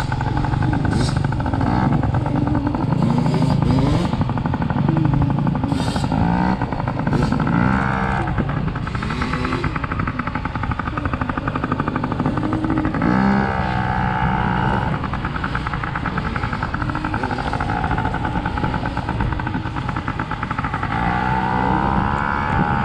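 Dirt bike engine running hard on a motocross track, its pitch repeatedly climbing as it accelerates through the gears and dropping as the throttle is rolled off.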